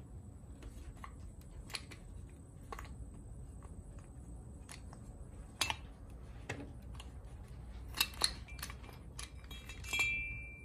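Scattered clicks and light metallic taps of small parts and tools as a starter solenoid is taken apart, with a short high ring near the end.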